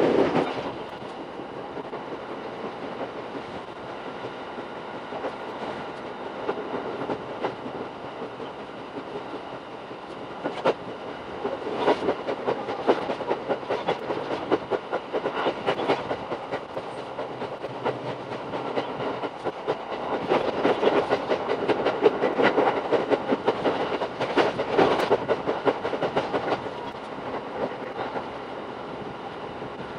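Running noise of a Shinano Railway SR1 series electric train: a steady rumble with dense, rapid clicking from the wheels on the rails, growing louder about twelve seconds in and again for a stretch in the second half.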